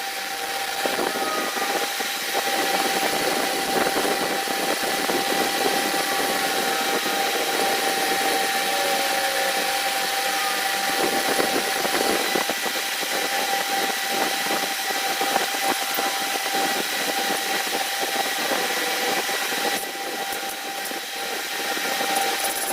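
A motor running steadily with a constant whine.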